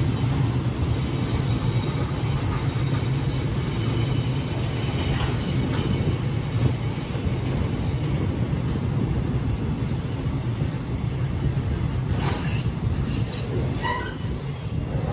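KTMB Class 26 diesel-electric locomotive and its cement wagons rolling into the station: a steady engine hum and rumble of wheels on rail. A few brief squeaks and knocks from the wheels near the end.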